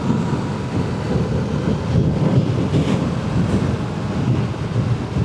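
Motorcycle running steadily while riding, with heavy wind noise on the rider's microphone.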